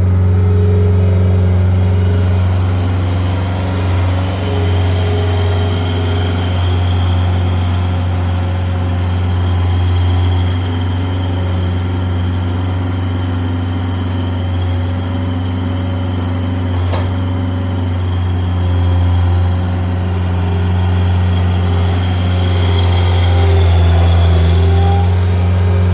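Log splitter's engine running steadily at a constant speed, a low, even hum, with one sharp click partway through.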